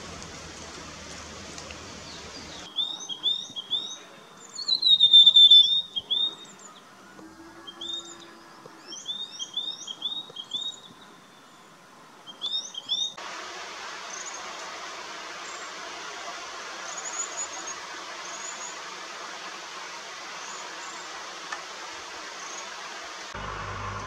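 Rufous sibia calling: quick phrases of short downslurred whistled notes on nearly the same pitch, repeated over about ten seconds from about three seconds in, the loudest a little after five seconds. Before and after, a steady background hiss with faint high chirps.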